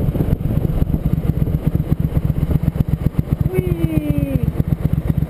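Motorcycle engine running at a steady speed, its rapid even firing pulses loud and low. A brief falling tone is heard near the end.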